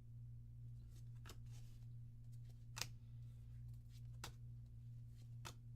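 Trading cards being flipped through by hand: four short, faint clicks about a second and a half apart as cards are snapped from the pack stack, over a steady low hum.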